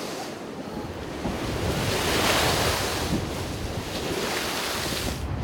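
Sea waves surging and breaking on the coast at high tide, in rushing swells that build about a second in, peak around two seconds, and rise again near the end. Wind buffets the microphone underneath.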